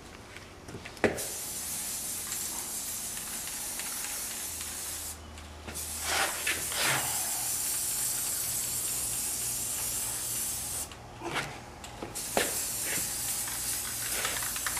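Aerosol spray paint can hissing in three long bursts of several seconds each, with short pauses between them, and a sharp click about a second in.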